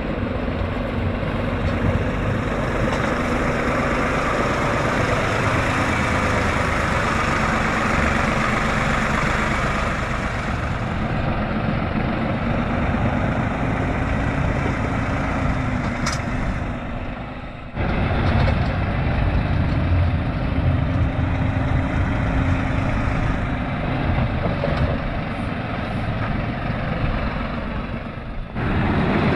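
Farm tractor engine running steadily at a fairly even speed, being warmed up, with the sound cutting off abruptly and resuming twice.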